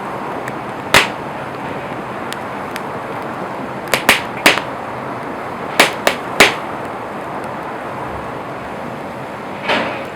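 Wood campfire burning with a steady crackling hiss and loud, sharp pops: one about a second in, then a cluster of six between four and six and a half seconds. A softer, broader crackle comes near the end.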